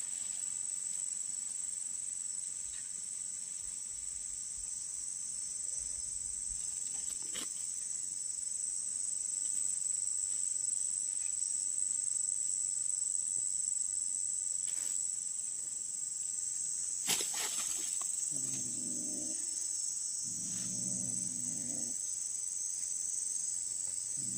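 Crickets chirring in a steady high drone. About three-quarters of the way through, an animal gives two short, low-pitched calls of about a second each.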